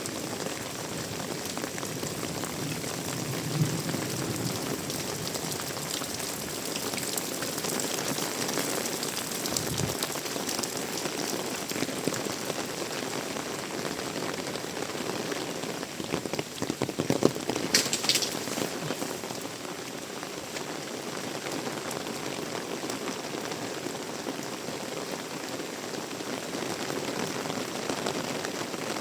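Heavy rain falling steadily, an even hiss of drops on surfaces, with a brief louder spatter of drops about two-thirds of the way through.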